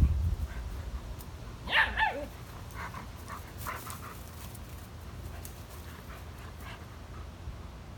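German Shepherd dogs at play: two loud, sharp yips about two seconds in, followed by a run of shorter, fainter yips and whines. A low thump at the very start.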